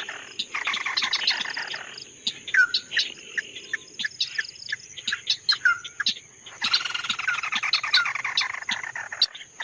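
A songbird singing: a fast chattering trill that breaks about two seconds in into separate sharp chirps and short down-slurred notes, then a fast chatter again from about seven seconds in.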